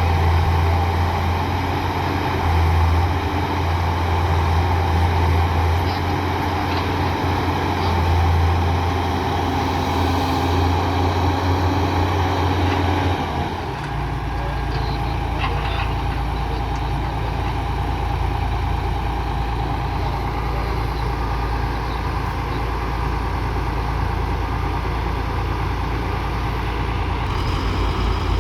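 Heavy diesel engine running steadily. About halfway through, its low note changes and it settles slightly quieter.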